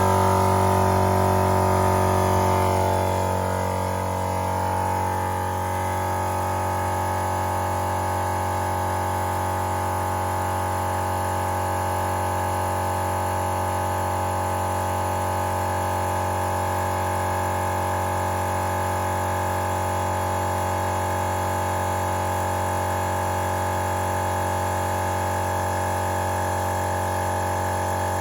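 Napa Maxi Trac 12-volt portable air compressor running, pumping air into an empty off-road tire. It makes a steady, loud drone that eases a little lower and quieter over the first few seconds as it takes up the load, then holds even.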